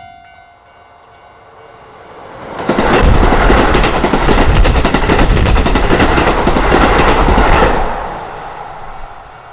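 A Keisei Main Line train passing close by over a level crossing: the rush of wheels and quick rail clatter comes up sharply about two and a half seconds in and fades after about eight seconds. The crossing's warning bell rings faintly before the train arrives and again as it fades.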